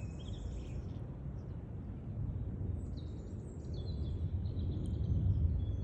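Songbirds singing in short high chirps, a few right at the start and a longer run from about three seconds in, over a steady low rumble.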